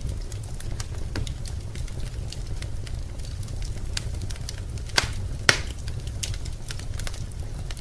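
Wood fire crackling in a fireplace: irregular small crackles with two louder pops about five seconds in, over a steady low rumble.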